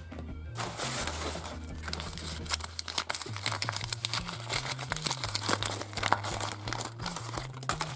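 Crinkly wrapper being crumpled and torn open by hand, a dense rapid crackling that starts about half a second in, as a small toy figure is unwrapped; background music plays underneath.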